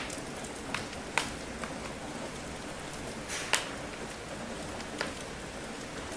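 Steady patter of rain with a wood fire crackling over it: a handful of sharp pops, the loudest about three and a half seconds in.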